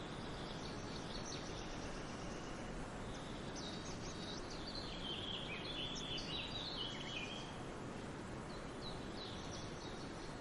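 Small songbirds chirping and trilling in quick, high phrases, busiest in the middle, over a steady rushing background of water or wind.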